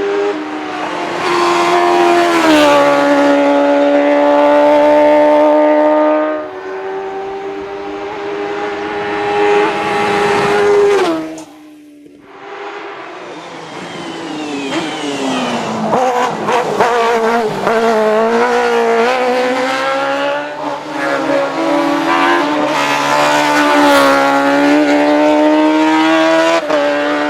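Suzuki GSX-R1000 inline-four motorcycle engine in a Speads RM06 hillclimb racecar, running hard at high revs with its pitch rising and falling, and a brief lull of about a second near the middle.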